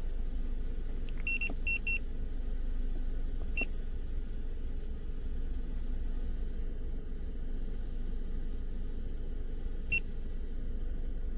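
Short high electronic beeps over a steady low rumble: a quick run of three about a second in, one more a couple of seconds later, and one near the end.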